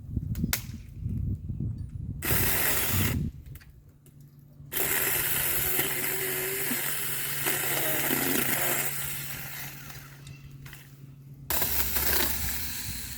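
Saker mini electric chainsaw running in bursts: a short run about two seconds in, a longer run from about five seconds that fades out around eleven seconds, and another short run near the end, with a few clicks before the first.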